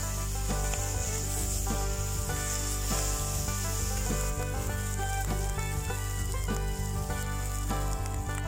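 Food sizzling and frying in a pan, with steady hissing throughout, over background music.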